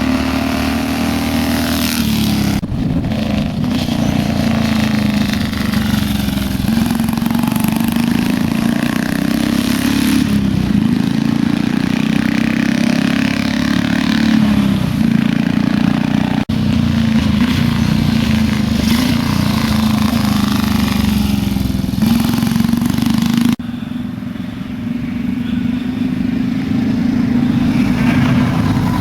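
1937 Rudge race motorcycle's single-cylinder engine running open through long straight pipes with no mufflers, held under steady throttle. The sound changes abruptly several times, as if it was cut together from separate runs.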